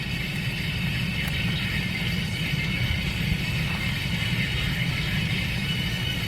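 Steady low rumble of a car with its engine running.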